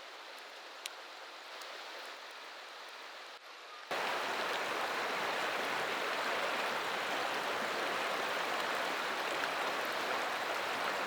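River water rushing, a steady wash of noise that jumps abruptly louder about four seconds in, with a faint click before the jump.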